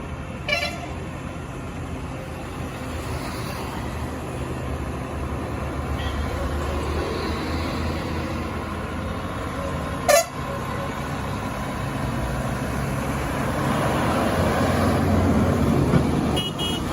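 Six-wheel truck's engine running steadily as it works around a hairpin bend, growing louder in the last few seconds. A short horn toot sounds about half a second in and a louder one about ten seconds in.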